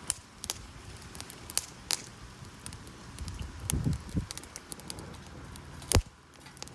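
Wood fire crackling, with scattered sharp pops and one louder pop about six seconds in.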